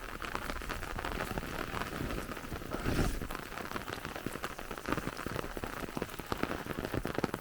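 Light rain falling steadily, many separate drops pattering close by, over the steady rush of rainwater running into a filling canal.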